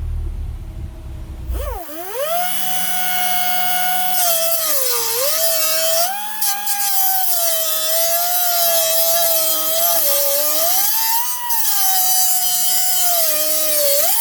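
Power tool motor running under load, its pitch sagging and recovering as it works. It starts about two seconds in, after the low rumble of a car engine.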